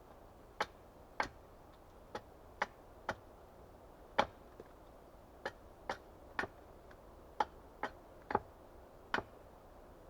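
Axe striking wood in light, sharp knocks, about fourteen of them at an uneven pace of one to two a second.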